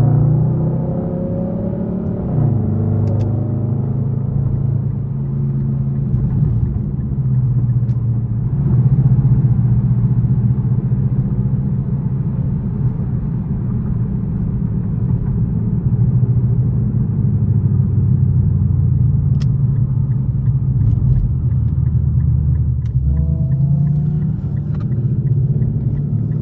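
Straight-piped Infiniti M56's 5.6-litre V8 exhaust rumbling while driving. The engine note drops in the first couple of seconds, holds steady for most of the stretch, then climbs again near the end as it picks up.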